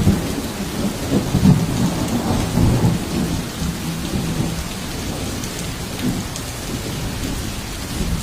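Thunder rumbling over heavy rain. The rumble is loudest in the first three seconds and then fades, leaving the steady hiss of the downpour.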